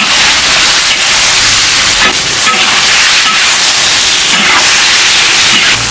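Loud, steady sizzling of eel pieces frying in hot rapeseed oil in a cast-iron wok, stirred with a metal spatula.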